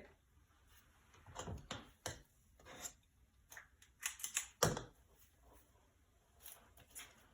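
Kitchen utensils handled at the counter while cookie dough is portioned: a few scattered light clicks and taps at irregular intervals, the loudest about four and a half seconds in.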